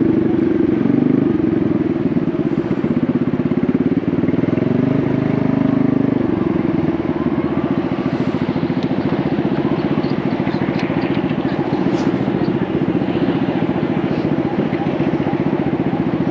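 Honda Navi's 109 cc single-cylinder engine running through a Vance & Hines exhaust while riding. The pitch rises and falls with the throttle for about six seconds, then holds steady.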